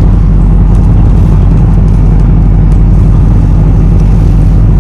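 Loud, steady low rumble and hum of a moving vehicle, with no change in level.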